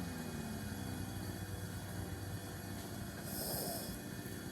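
Distant lawn mower engine running steadily in the background, with a brief high hiss about three seconds in.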